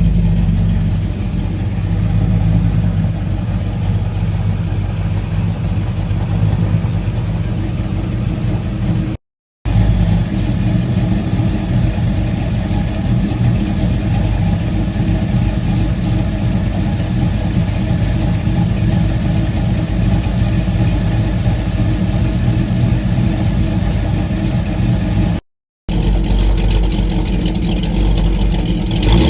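ATK 350 small-block Chevy V8 with a hydraulic roller cam, breathing through block hugger headers and Flowmaster Super 10 single-chamber mufflers, idling steadily with a slight lope. The sound cuts out briefly twice.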